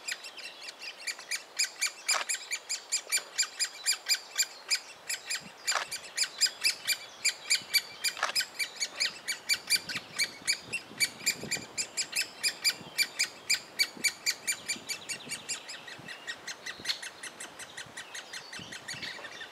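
Great spotted woodpecker nestlings begging from inside the nest hole: a rapid, steady chatter of short, high calls, about five a second, with a few louder calls standing out in the first half.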